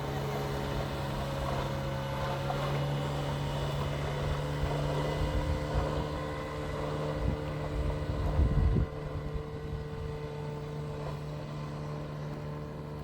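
An engine running steadily, a constant pitched drone, with wind rumbling on the microphone that is strongest about eight seconds in.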